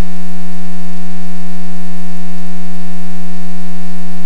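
A loud, steady, low electronic buzzing tone, unchanging in pitch, that masks every other sound.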